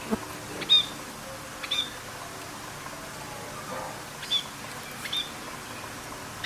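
A bird giving short, sharp chirps: four in two pairs, the calls in each pair about a second apart, over a steady background hiss.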